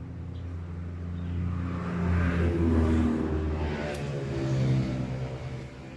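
A motor running, its pitch rising and then falling twice.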